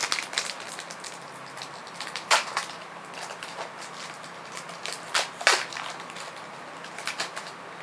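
Trading cards being handled and flicked through: scattered short rustles and sharp card snaps, the loudest a little after two seconds and around five seconds in, over a steady low room hum.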